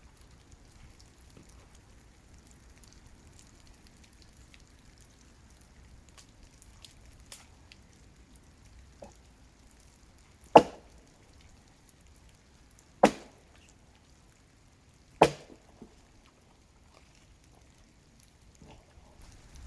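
Three axe strikes biting into the trunk of a dead tree, each a sharp single chop, about two and a half seconds apart, in the second half.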